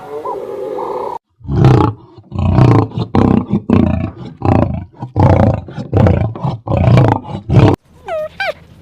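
A large animal roaring: a run of about eight loud, rough calls in quick succession, after a short tonal call at the start. Near the end come short, high, falling squeals.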